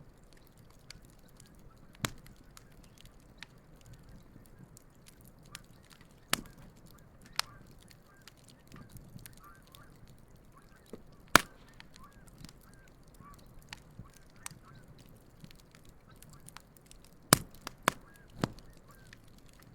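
Wood campfire crackling with scattered sharp pops, the loudest about eleven seconds in and a few more near the end, while geese honk faintly in the background.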